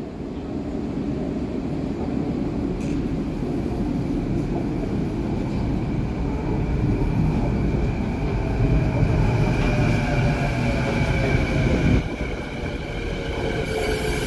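Vancouver Canada Line SkyTrain running, a steady rumble with an electric motor whine in several held tones, some of them slowly sliding down in pitch. It grows louder, then drops suddenly about twelve seconds in.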